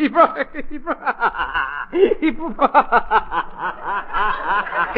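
A man laughing in a run of short, quick chuckles.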